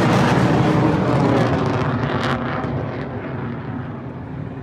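Military jet roaring low overhead, a loud rushing noise that fades away over the last two seconds as the plane passes.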